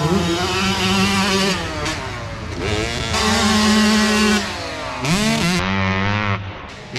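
65cc two-stroke motocross bike engine running at high revs, dropping off and picking up again several times as it is ridden.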